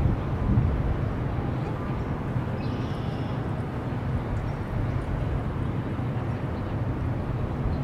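Steady low rumble of a distant GO Transit commuter train moving away through the rail yard, under city background noise, with a brief faint high-pitched sound a little under three seconds in.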